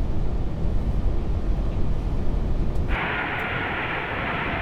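Steady low rumble in the cockpit of an Airbus A380 on short final, seconds before touchdown. About three seconds in, a band of hiss like an open radio channel cuts in abruptly and holds.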